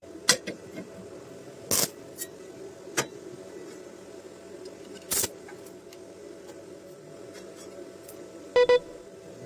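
Sharp metallic knocks and clinks, a handful spread a second or more apart, over a steady hum. Near the end comes a brief double ringing tone.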